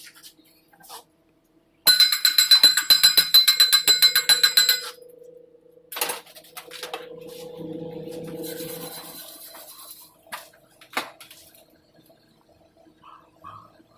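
Steel struck repeatedly in quick succession, sharp ringing metallic clinks for about three seconds, then fainter scraping and clatter with a few single knocks.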